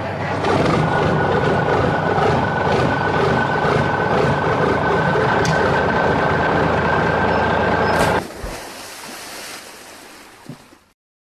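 Vehicle engine or motor running with a steady high whine. It drops sharply about eight seconds in and fades away.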